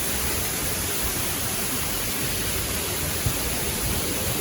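A 63-foot spring-fed waterfall plunging into a small canyon: a steady hiss of falling water.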